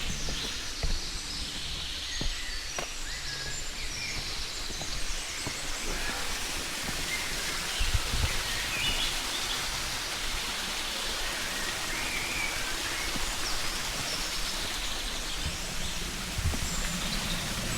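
Small birds chirping over a steady outdoor rushing hiss, with a few brief low thuds.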